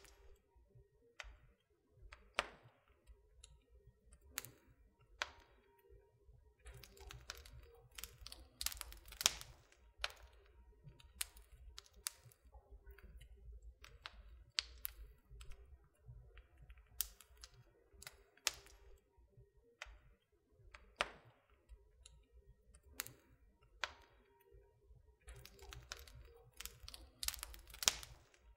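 Wood burning in a fireplace, crackling: irregular sharp pops and snaps, sometimes several in quick succession, over a faint low rumble.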